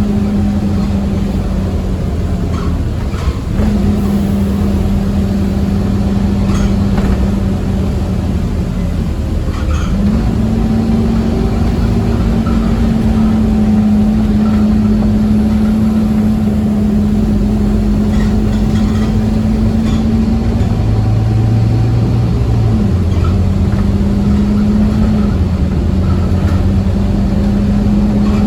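Scania OmniCity bus engine and driveline running at speed, heard from inside the saloon: a steady hum whose pitch dips and recovers a few times as the power eases off and comes back on, over a constant road rumble.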